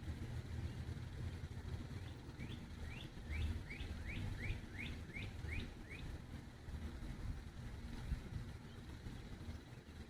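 A songbird singing a quick run of about ten short rising notes, starting a couple of seconds in and stopping about halfway through, over a steady low rumble.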